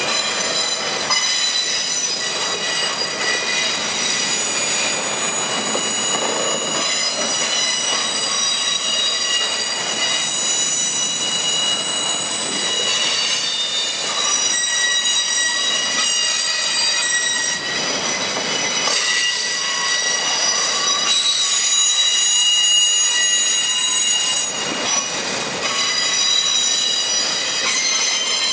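A freight train of autorack cars rolls steadily past. Its wheels squeal in many high whistling tones that shift and change over the steady rumble and clatter of the cars.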